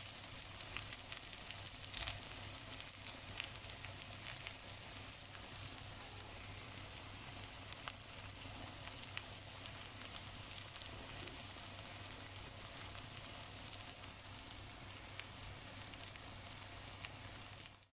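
Chicken chow mein sizzling in a wok: a steady, faint frying hiss with scattered small crackles. It cuts off suddenly just before the end.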